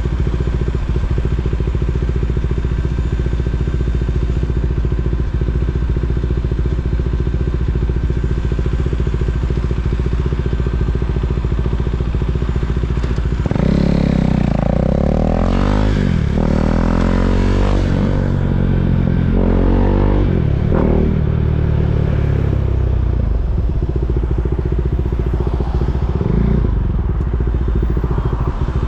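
KTM 390 Duke's single-cylinder engine idling steadily, then revving up in several rising pulls about halfway through, before settling back to a low, steady run near the end.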